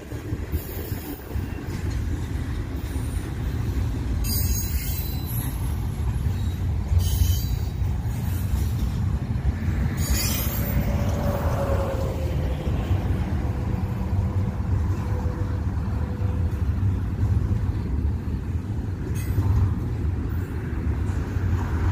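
Long Union Pacific intermodal freight train rolling past, a steady low rumble of cars on the rails, with a few brief high squeals and, near the middle, a faint drawn-out wheel squeal for several seconds.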